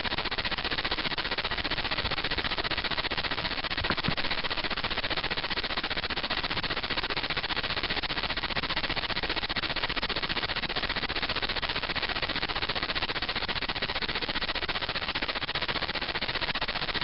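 Steady hiss of telephone-line noise on a conference call, with a faint steady high tone running through it. A single click about four seconds in.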